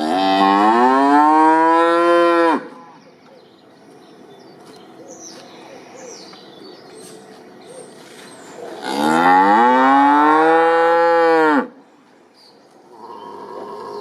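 Cow mooing: two long calls, one at the start and another about nine seconds later, each rising then falling in pitch.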